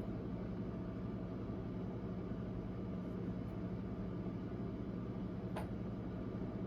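Steady low hum of a motor or fan in a small room, with a single faint click about five and a half seconds in.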